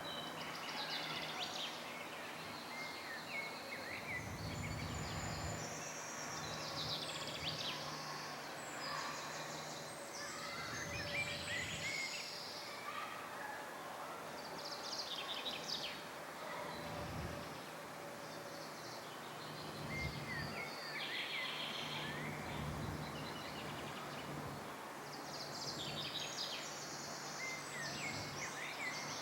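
Several birds chirping and trilling in short, overlapping high calls over a steady background hiss, with a few brief low rumbles.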